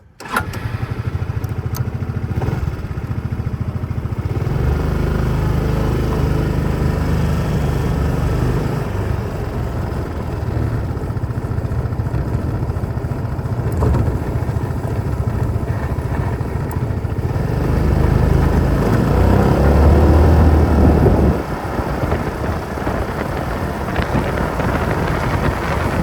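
Honda Reflex 250 scooter's single-cylinder engine running as the scooter pulls away and rides along. The engine gets louder about four seconds in, builds again to its loudest near the three-quarter mark, then eases off suddenly.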